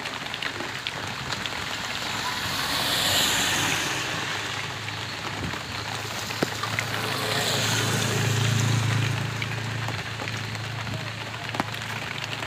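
Heavy rain falling on a street, a dense steady hiss with scattered drop clicks. The rain noise swells louder about three seconds in and again around eight seconds, when a low engine hum joins it, like a vehicle passing on the wet road.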